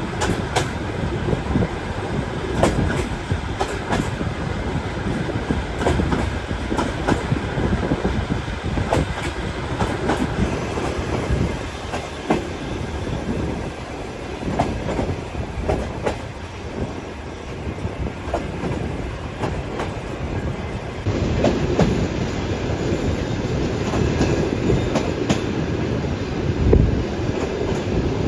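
Sleeper train running on the rails: a steady rumble with the wheels clicking irregularly over rail joints. The sound grows a little louder about two-thirds of the way through.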